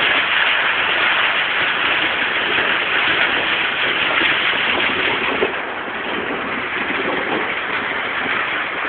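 Heavy rain pouring steadily during a thunderstorm, easing slightly a little past halfway.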